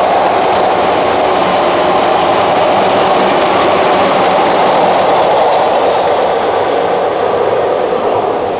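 Izukyu 2100 series 'Kurofune' electric train running through at speed, a loud steady rush of wheels on rail as the cars pass. The noise eases off a little near the end as the train draws away.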